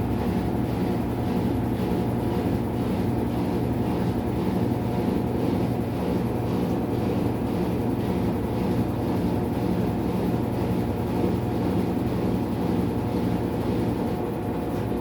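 Maytag MVWX655DW1 washing machine running its tub clean cycle: a steady mechanical hum and rumble with no break.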